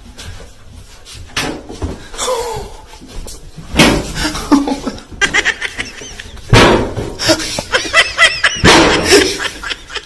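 People laughing, with a few loud thumps among the laughter.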